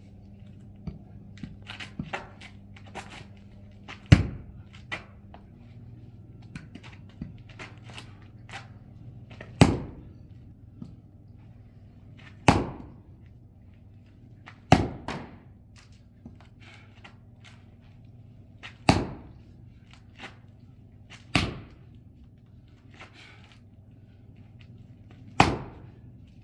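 An axe striking a large firewood log again and again, seven hard chops a few seconds apart with lighter knocks between them, as the log resists splitting.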